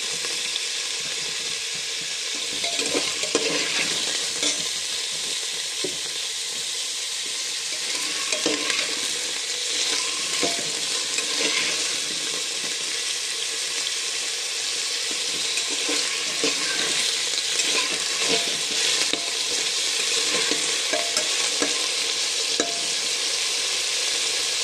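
Cubed raw jackfruit sizzling steadily as it fries in oil in a metal pot, with a spatula scraping and clinking against the pot now and then as the pieces are stirred.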